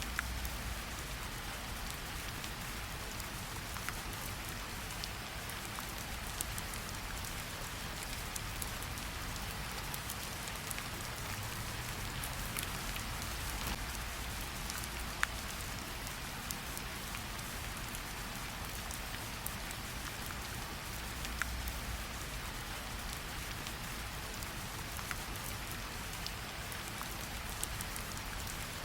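Steady gentle rain pattering on tree leaves, with scattered individual drops ticking out over the even hiss and one sharper drip about fifteen seconds in.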